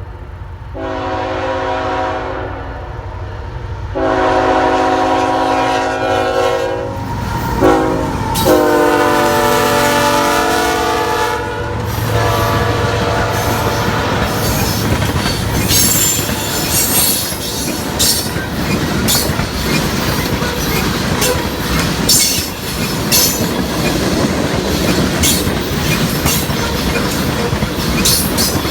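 Freight train horn sounding the grade-crossing signal as the train approaches: two long blasts, a short one, then a longer one. The locomotives then go by, followed by freight cars rolling past with a steady rhythmic clickety-clack of wheels over the rail joints and some wheel squeal.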